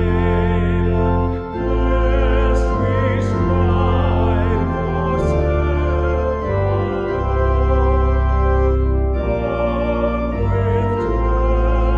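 Church organ playing a hymn tune in sustained full chords over a deep bass line, the harmony changing every second or two.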